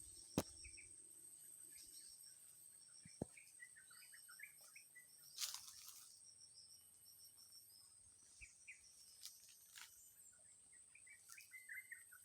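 Small birds chirping in short, scattered bursts of high notes over a steady, very high insect-like drone, with a few sharp clicks and a brief rush of noise near the middle.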